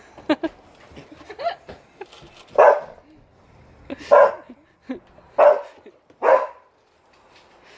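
A dog barking: four loud, short barks spread over a few seconds, with fainter short sounds before them.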